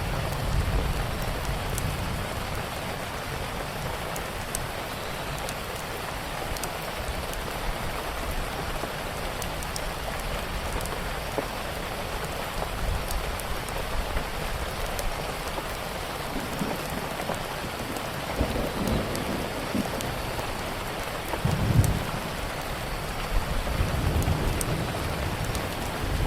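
Steady heavy rain, with low rumbles of distant thunder rolling in several times, the strongest about three quarters of the way through. Faint sharp crackles are scattered over the rain.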